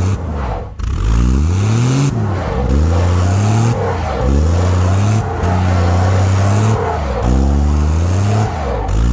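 Dodge D100's slant-six engine revving up and dropping back again and again, about every second or two, as the truck strains to pull free of ice frozen around its tires.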